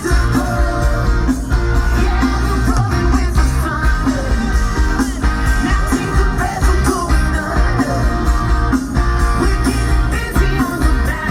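A live rock band playing a song, with sung vocals over guitars, bass and drums.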